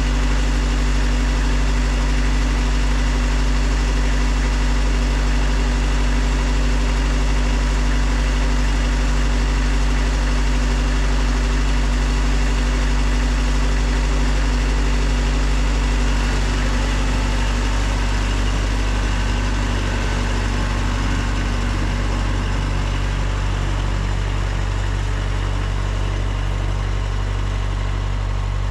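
Engine of a snow-plowing machine idling steadily while it warms up. About sixteen seconds in, its note shifts and it gets a little quieter.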